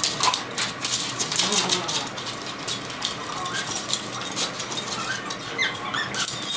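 Excited dachshunds making rapid clicking and tapping sounds, with a few short high whines near the end, as they work themselves up over supper.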